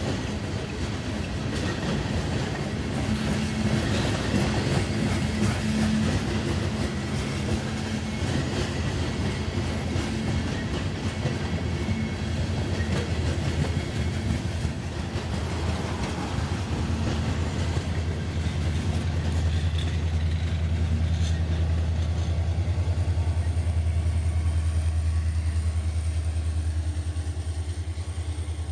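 Freight train of covered hopper cars rolling past, steel wheels clattering over the rails. From a little past halfway a low, steady diesel engine drone builds and grows louder as a Union Pacific diesel locomotive at the back of the train comes by near the end.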